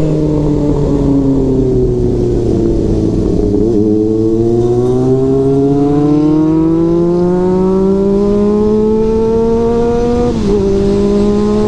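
Motorcycle engine under way: the revs fall for about four seconds, then climb steadily as the bike accelerates in gear, drop sharply with an upshift about ten seconds in, and hold steady after it. A low wind rumble lies under the engine.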